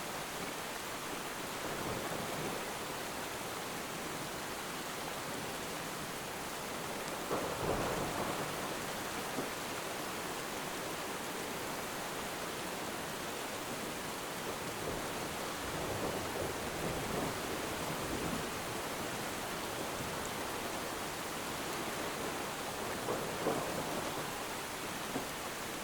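Steady rain with a few rumbles of thunder rising out of it, the strongest about eight seconds in.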